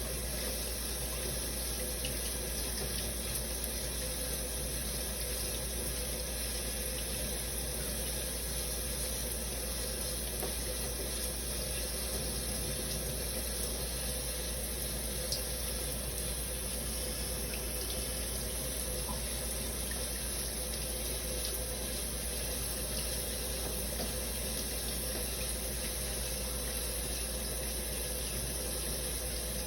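Shower running steadily: an even hiss of water spraying and splashing, unchanging throughout.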